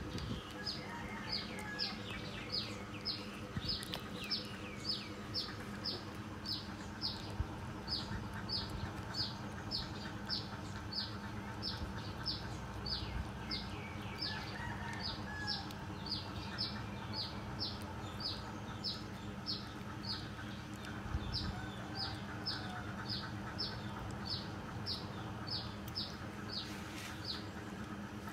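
A small bird chirping over and over, about two short, falling, high-pitched chirps a second, keeping a steady rhythm throughout, over a faint steady hum.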